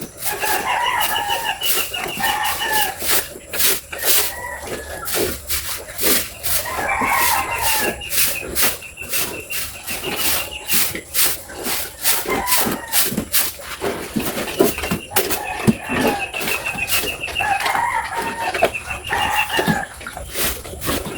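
Pigs eating feed: a constant run of sharp wet smacking and chomping clicks. Over it, several long, high, rapidly pulsed animal calls come and go.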